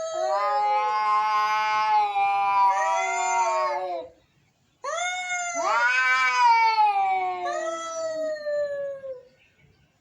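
Angry cats caterwauling: two long, drawn-out yowls, each rising and then sliding down in pitch. The first lasts about four seconds; the second starts about a second after it ends.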